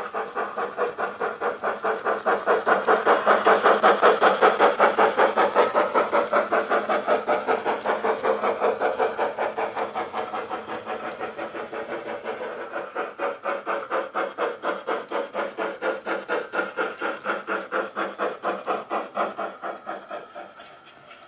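Model steam locomotive's DCC sound decoder playing rapid, even exhaust chuffs, about five a second, through a small speaker with no bass. The chuffs are louder in the first few seconds and die away near the end.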